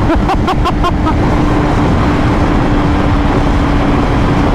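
Motorcycle riding at speed: heavy wind and road noise on the microphone over a steady engine drone. A few short chirping tones fade out in the first second.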